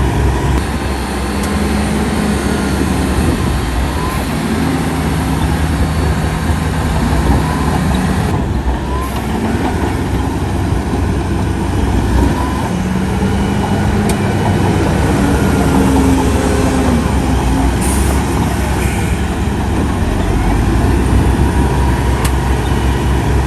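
Heavy diesel engines of earthmoving machinery running under load, a steady low rumble whose pitch rises and falls several times as the engines rev up and settle.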